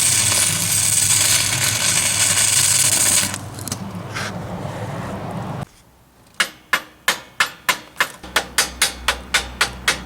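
A 6010 stick-welding arc crackles and hisses steadily, then is broken off about three seconds in. Soon after, a chipping hammer strikes the steel weld in a run of sharp blows, quickening to about three a second, knocking off slag.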